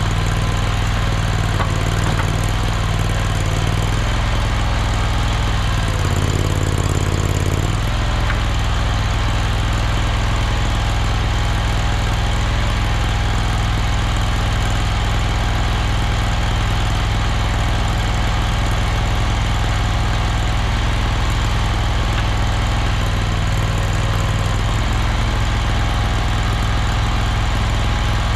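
Mini skid steer engine running steadily, with a brief change in its low note between about six and eight seconds in.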